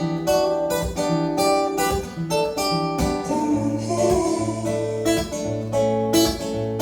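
Pop song accompaniment without vocals: acoustic guitar strumming chords in a steady rhythm, with low bass notes joining about halfway through.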